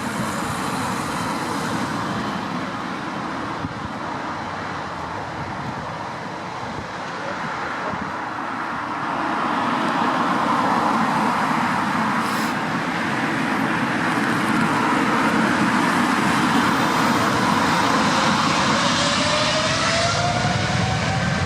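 Boeing 777-300 jet engines at take-off power: a broad rushing noise that grows louder about ten seconds in, with a faint tone rising in pitch near the end.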